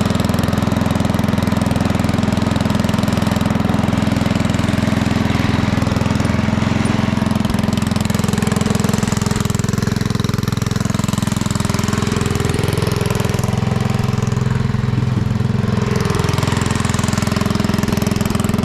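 A small engine running steadily, with a brief change in engine speed about two-thirds of the way through before it settles back.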